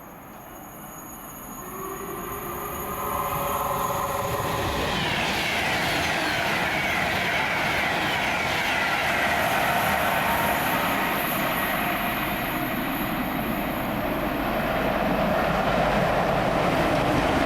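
A train passing through the station. Its sound builds over the first few seconds, with a few pitched tones falling in pitch, then holds at a steady loud rush of wheels on rail.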